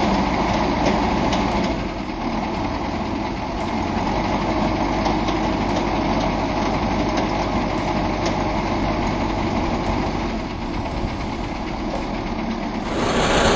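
Heavy truck engine running steadily, with an abrupt change to a louder engine sound near the end.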